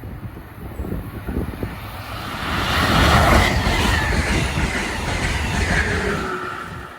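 A train passing by on the rails: rumble and wheel clatter swell to their loudest about three seconds in, hold, then fade away near the end.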